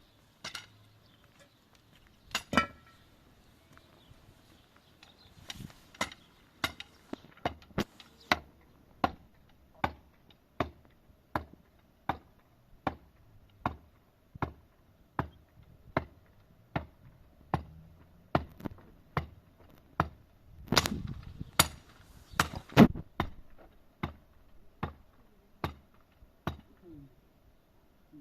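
Repeated blows of a hand tool striking wood. They fall at an even pace of about one every three-quarters of a second, and the loudest few come about two-thirds of the way through.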